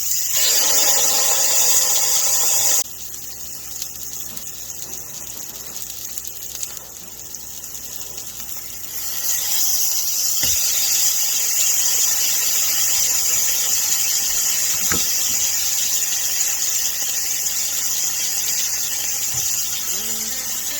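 Chicken frying in hot oil and garlic butter, sizzling loudly. The sizzle drops away sharply about three seconds in and comes back strong about nine seconds in.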